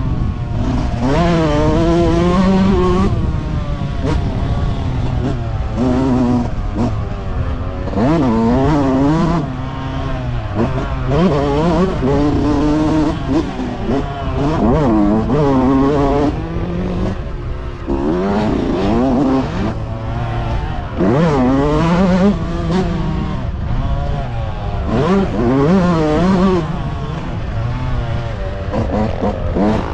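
Several motocross bikes racing, their engines revving up and dropping back over and over as they accelerate and shift, with more than one bike audible at once.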